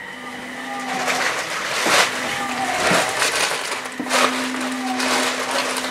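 Cabin noise of an electric train running: a steady rushing rumble with several sharp clacks from the wheels on the track, and a steady low hum that comes and goes, holding from about four seconds in.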